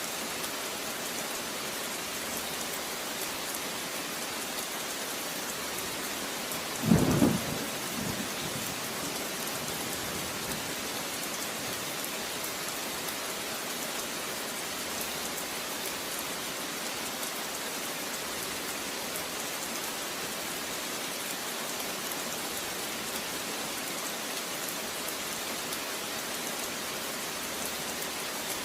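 Steady rain falling, an even hiss, with one short rumble of thunder about seven seconds in, the loudest moment.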